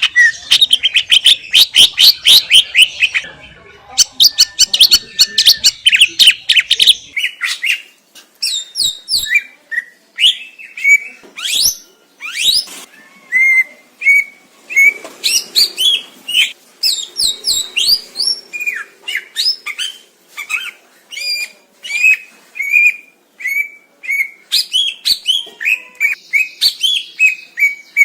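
Cucak ijo (green leafbird) singing a loud, continuous, varied song of rapid chirps, trills and short whistles with quick rising and falling sweeps.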